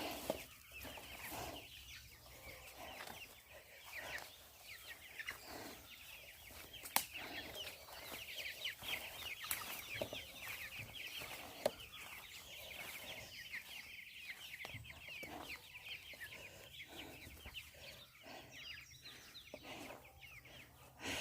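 A flock of chickens clucking quietly, with a steady run of quick, high chirps behind them and a couple of sharp clicks.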